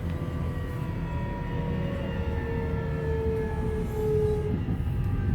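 Subway train running with a steady low rumble, its electric motor whine falling slowly in pitch as the train slows.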